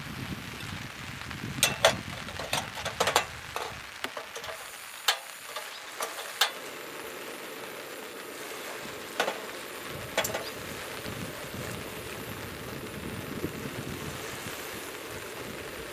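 Rain falling, a steady hiss with irregular sharp ticks of heavier drops striking a surface, most of them in the first half.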